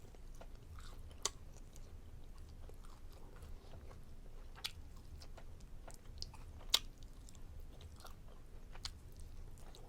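A person chewing food, with scattered sharp wet mouth clicks, the loudest about two-thirds of the way through.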